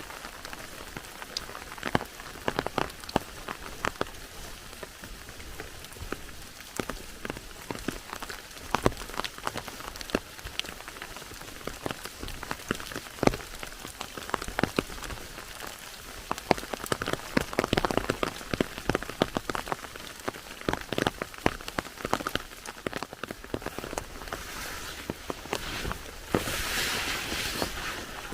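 Rain falling, with many separate drops ticking sharply on a hard surface over a steady hiss. The hiss swells louder for a couple of seconds near the end.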